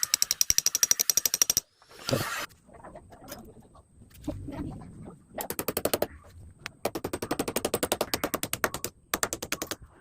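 Rapid, even mechanical clicking, about a dozen or more clicks a second, in several bursts with short pauses, like a tool's ratcheting mechanism being worked. A brief swish and some low rumbling come between the bursts.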